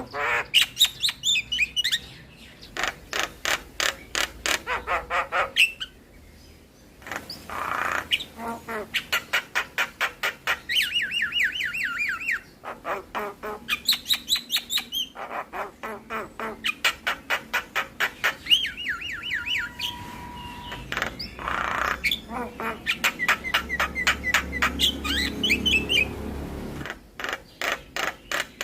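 Javan myna song: fast runs of sharp repeated clicking notes alternating with wavering whistled trills and squawks, in bouts broken by short pauses.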